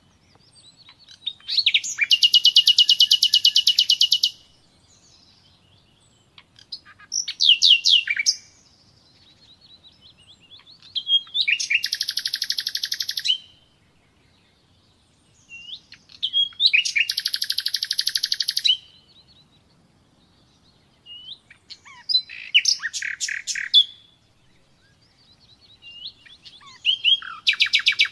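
Nightingale singing: about six phrases of fast, high repeated notes and rapid trills, each lasting one to three seconds, with short pauses between them.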